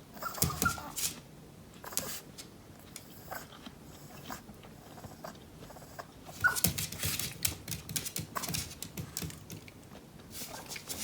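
Crunching and chewing of crisp Japanese pear in two bouts of quick crackly bites, the first right at the start and the second about six and a half seconds in, each opening with a brief high squeak.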